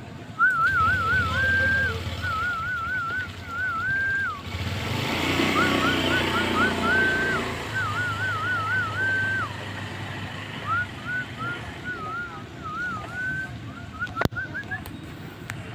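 Javan myna (jalak kebo) giving repeated whistled phrases, each warbling quickly up and down and then holding a steady note, over a low background hum. A single sharp click sounds near the end.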